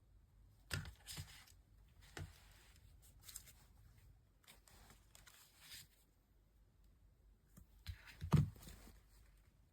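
Handling noises: scattered knocks and rustling, with a louder thud about eight seconds in.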